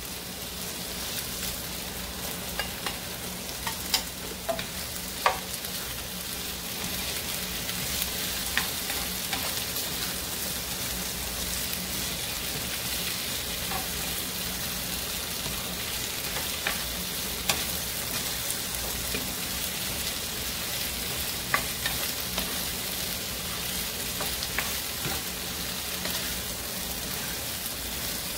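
Sliced bell peppers and other vegetables sizzling steadily in hot oil in a frying pan over medium-high heat as they are stir-fried, with a utensil clicking against the pan now and then.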